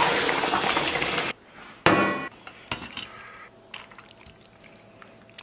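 About a second of dense sizzling and stirring from the pot of braised intestine as the chopped chilies go in, cut off abruptly. Then one clink of a dish being set down with a short ring, followed by scattered light taps and clinks of tableware.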